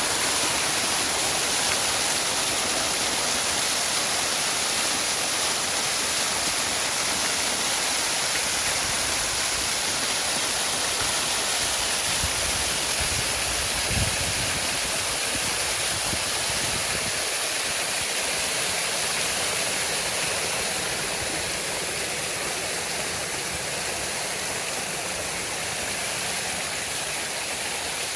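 Waterfall: a steady, dense rush of falling water, with a brief low thump about halfway through.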